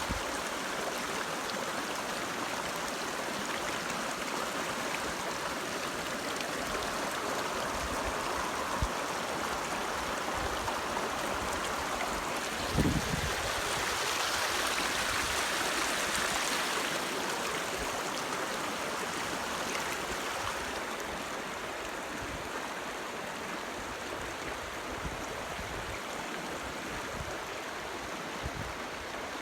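Steady rush of flowing water from a stream, with two brief low thumps, one about nine seconds in and one about thirteen seconds in.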